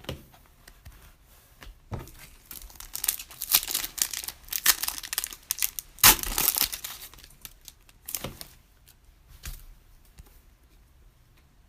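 A Panini Prizm trading-card pack wrapper being torn open and crinkled, in a run of crackly bursts that is loudest about six seconds in, followed by two shorter crinkles.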